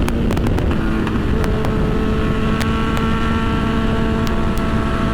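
Honda CB1000 inline-four engine running at steady revs while riding, with wind noise over the microphone.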